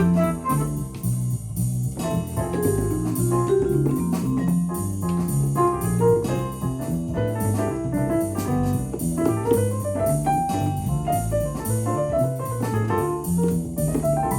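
Korg Pa1000 arranger keyboard playing a jazz-flavoured factory style: a walking bass line under piano and organ-like chords and a melody, with a drum accompaniment.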